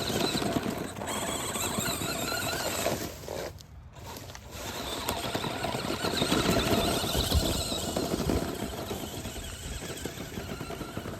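Large electric RC monster truck running, its drive motor whining with a wavering pitch over a rough rumbling noise; it eases off briefly about four seconds in, then picks up again.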